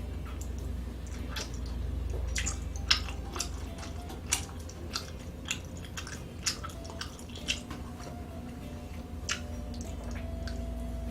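A person chewing food close to the microphone, with irregular sharp mouth clicks.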